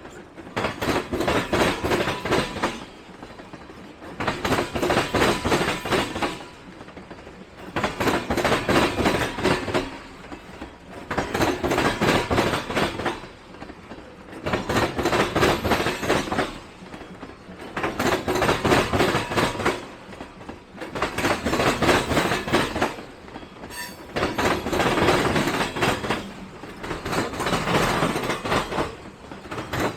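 Freight train rolling slowly past, its car wheels clattering over the rail joints in a regular rhythm: a burst of clatter roughly every three and a half seconds as each set of trucks goes by, with quieter rolling between.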